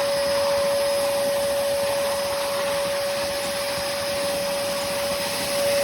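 Hoover Commercial PortaPower CH30000 bagged canister vacuum running steadily, a constant motor whine over the rush of suction airflow.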